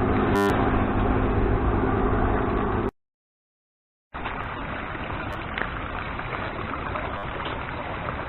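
Steady airliner cabin drone from the engines, with a short blip just after the start. It cuts off abruptly about three seconds in. After a second of silence, a quieter, rougher rushing noise begins.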